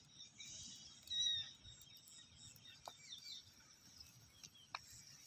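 Faint bird chirps, the clearest and loudest about a second in, with a few light clicks later on.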